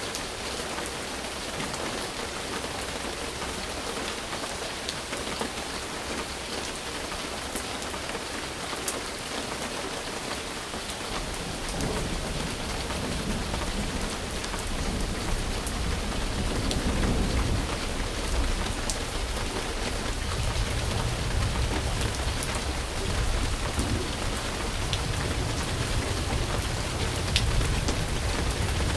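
Steady rain falling, with scattered sharp drop ticks. About twelve seconds in, a low rumble of thunder sets in and carries on, the whole sound growing louder.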